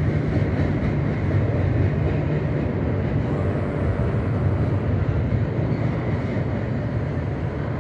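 Double-stack container freight train rolling across a steel girder railroad bridge, a continuous low rumble that holds steady throughout.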